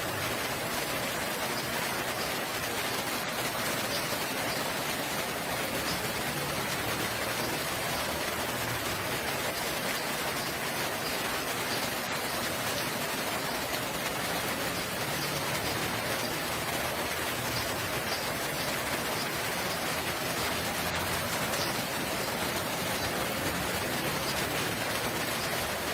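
Steady rain falling, a dense, even hiss without pause.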